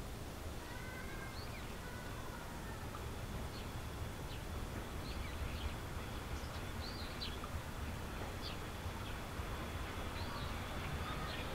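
Small birds calling with short, high chirps scattered throughout, over a steady low outdoor rumble.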